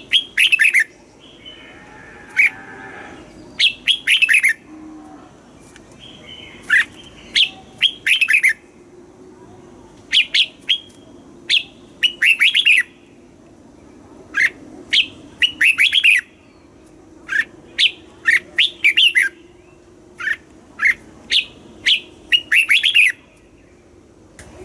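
Red-whiskered bulbul singing: short phrases of quick, clear notes repeated every second or two with brief pauses between them.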